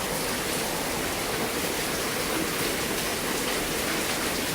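Heavy rain pouring down in a steady, loud rush with a jet-like drone, which the owner takes for rain falling on something she can't see, perhaps newly installed gutters.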